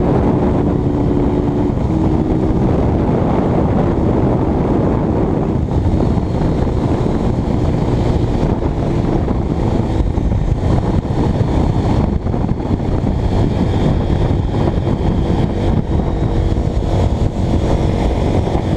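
Honda CBX 250 Twister motorcycle riding at speed, its engine running steadily with its pitch shifting a little now and then, under heavy wind noise on the microphone.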